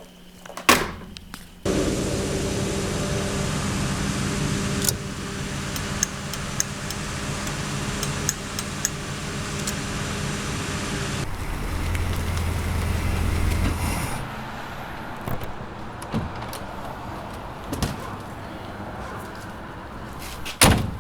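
Car engine running loud and raw through a cut exhaust pipe, with a steady drone. It changes about halfway through and falls quieter after about 14 seconds. A sharp knock like a car door comes near the end.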